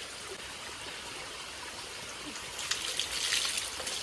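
Water of a small stream running steadily, with a louder rush of splashing water about two and a half seconds in that lasts about a second.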